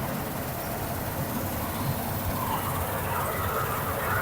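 Combine harvester running steadily in the wheat field: a constant low mechanical rumble with noise across the range.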